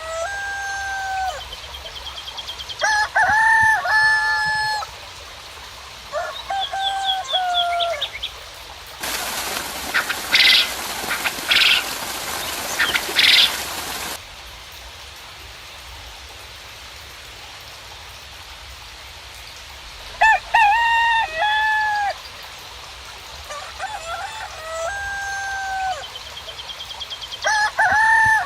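Roosters crowing again and again, each crow a second or two long, with small birds chirping high above them. About nine seconds in there is a loud, harsh burst of noise lasting about five seconds, with three louder pulses in it.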